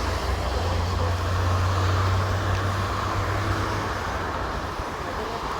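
Steady traffic noise from a busy toll road, with a swell about a second or two in as vehicles pass.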